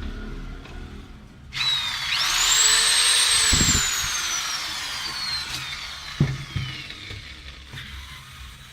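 Electric drill motor switched on about a second and a half in: it whines up to speed, then is let go and winds down slowly over several seconds. Two low knocks come during the run.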